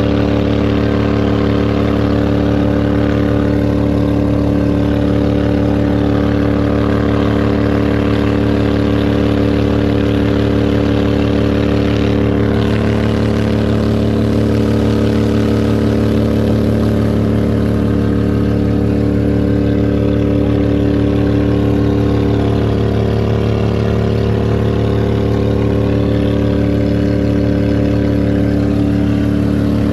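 Duck boat's motor running steadily under way, an even engine drone with only slight changes in pitch.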